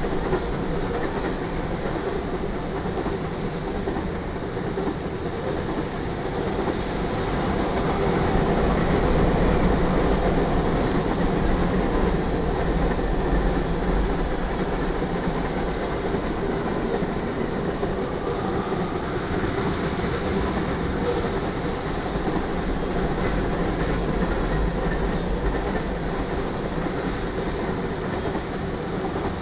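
Freight cars of a passing train, covered hoppers and tank cars, rolling by close at hand: a steady rumble and rattle of steel wheels on the rails, swelling slightly about eight seconds in.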